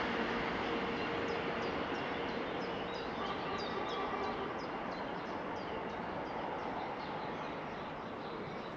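A small bird calling: short, high, descending chirps about twice a second, starting about a second in and stopping near the end. Behind them, the rumble of a vehicle that has just passed fades slowly away.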